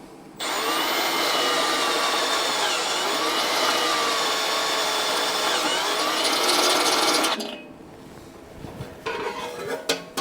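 Power drill boring a hole, starting about half a second in and running steadily under load for around seven seconds before stopping abruptly; its whine wavers slightly in pitch as the bit cuts.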